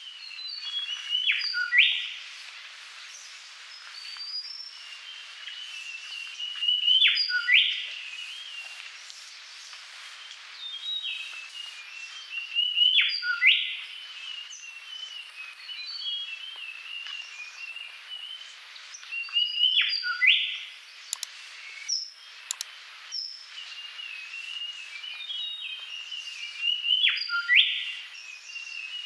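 Birdsong: continuous twittering chirps with a loud upward-sweeping call that comes back about every six seconds, five times in all.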